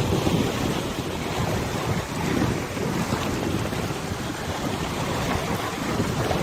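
Wind buffeting the microphone over open river water, mixed with the wash of small waves: a steady, gusty rumble without any engine tone.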